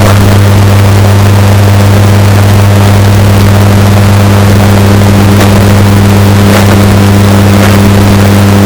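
Washing machine running with a steady, deep motor hum, heavily bass-boosted and distorted at near full-scale loudness.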